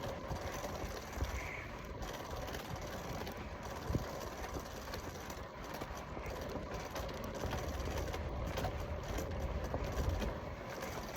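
Steady low rumble of wind on the microphone and tyre noise from a hybrid bicycle rolling along a paved trail, with a couple of faint knocks.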